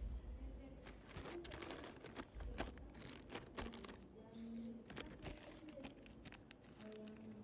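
Faint scattered clicks and crinkling, with faint voices in the background.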